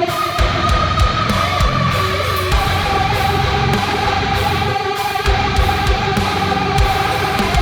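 Playback of a programmed deathcore section: heavy distorted guitars and kick drums under a newly added metal lead line. The lead holds a high note, then steps down to a lower held note about two and a half seconds in.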